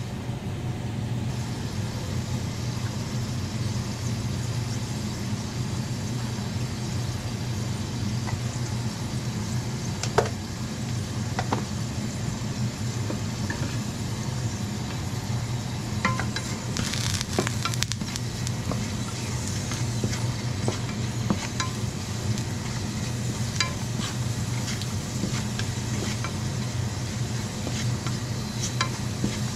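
Strips of kabocha pumpkin skin sizzling in a frying pan over a steady low hum, with scattered small pops; a wooden spatula stirs them near the end.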